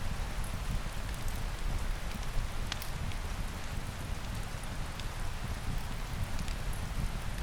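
Steady rain falling, with a low rumble underneath and a few scattered sharp crackles from a fireplace.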